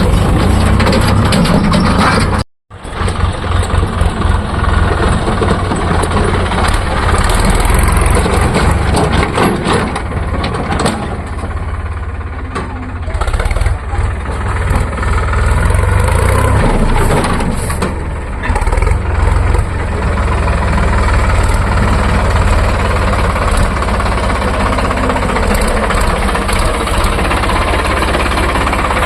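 Diesel engine of a JCB 3DX backhoe loader running under varying load as it digs and loads mud, with the tractor's engine likely mixed in. The sound cuts out completely for a moment about two and a half seconds in, then comes back.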